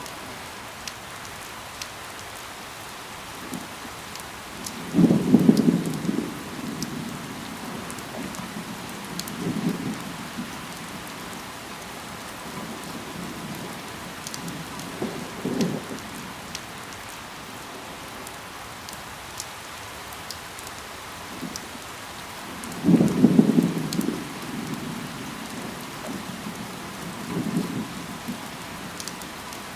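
Steady rain falling, with individual drops ticking sharply here and there. Two louder low rumbling swells come about 5 seconds and 23 seconds in, each about a second long, with weaker ones in between.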